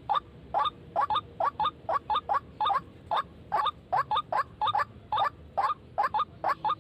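White-breasted waterhen (ruak-ruak) calls, a monotonous string of short, harsh notes repeated about three times a second without a break.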